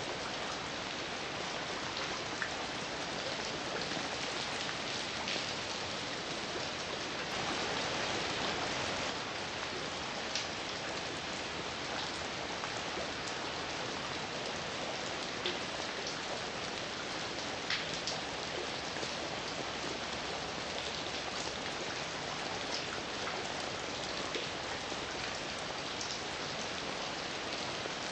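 Steady heavy rain falling on a surface, an even hiss with scattered sharper drop hits, swelling slightly louder for a couple of seconds near the quarter-way point.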